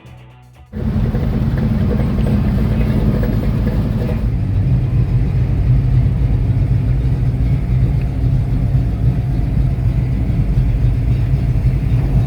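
The 1965 Mustang running down the road with its swapped-in 1989 Ford 5.0L V8: a steady engine drone with road noise, starting abruptly about a second in. The engine note changes about four seconds in.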